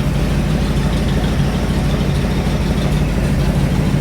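Engine of a freshly built rat rod idling steadily on its first run, a fast, even pulse with no change in speed.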